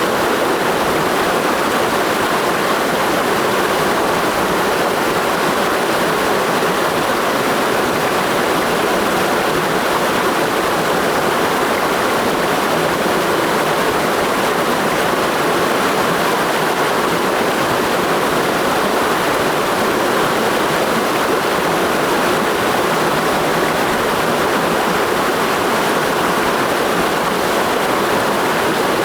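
Clear mountain stream rushing over rocks, a steady, even water roar.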